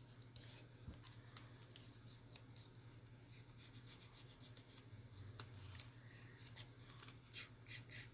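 Faint paper handling with scissors: light rustles and taps of paper, then a quick run of short snips near the end, over a faint steady low hum.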